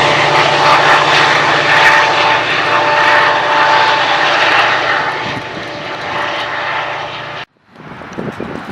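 Train passing close by on the mainline: a loud, steady rush and rumble with two faint steady tones in it, easing off over the last few seconds. The sound cuts off suddenly near the end, and quieter outdoor sound follows.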